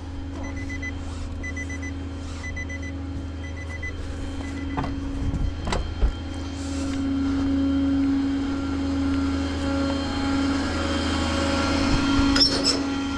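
Tow truck engine running steadily, with an electronic beep about once a second for the first five seconds; the engine then speeds up and runs louder.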